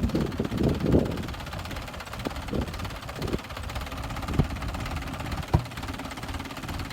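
Tractor engine running steadily, with wind on the microphone and a couple of short sharp knocks in the second half.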